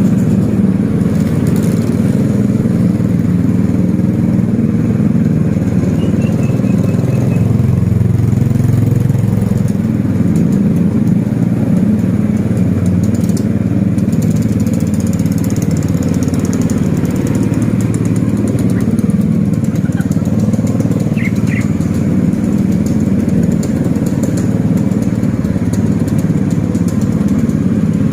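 Motorcycle engine running steadily with road noise while riding. A few brief, faint high chirps come through about six seconds in and again around twenty-one seconds.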